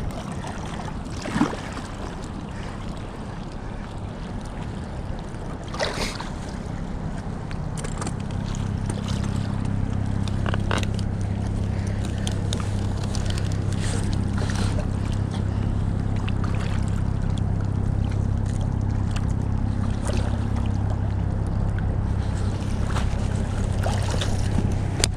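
Boat motor running with a steady low hum that comes in about eight seconds in and holds, over wind and water noise, with a few sharp knocks in the first seconds.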